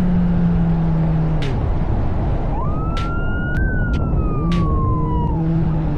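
Police siren sounding one wail: it rises about two and a half seconds in, then falls slowly, over steady vehicle engine and road noise. A steady engine hum ends in the first second and a half, and a few sharp clicks are heard.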